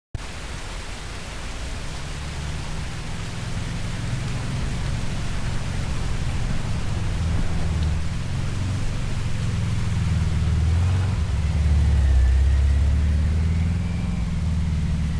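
Volkswagen Vanagon being driven: a steady low engine and road rumble with a haze of tyre and wind noise, growing gradually louder.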